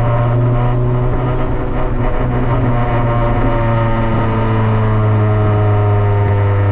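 Steady engine drone inside the cabin of a turbocharged Honda Civic under way, a low hum with a few small shifts in pitch.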